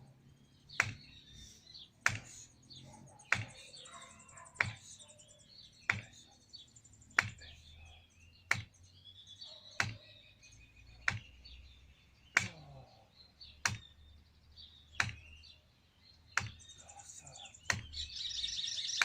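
Small birds chirping, under a sharp knock that repeats evenly about every second and a quarter. The knock is the loudest sound.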